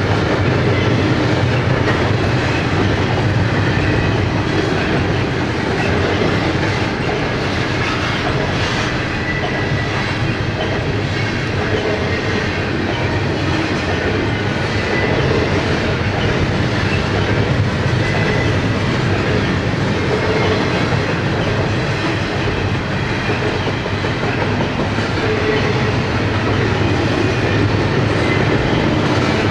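Double-stack intermodal train's loaded well cars rolling past: a steady, loud rolling noise of steel wheels on rail, with faint brief high wheel squeals now and then.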